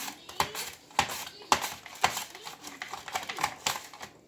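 Potato being pushed back and forth across a Tupperware mandoline blade with its food holder: a run of sharp slicing strokes, about two a second.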